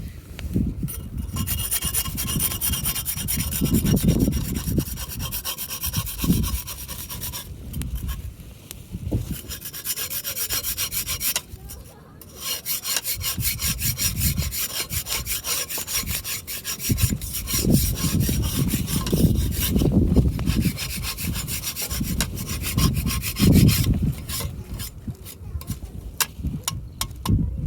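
Hand saw cutting through firewood in fast, even strokes, in several long runs with short breaks between them.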